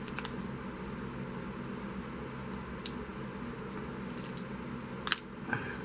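Craft supplies handled on a tabletop: scattered light taps and rustles, with a sharper click about five seconds in, over the steady hum of an electric fan.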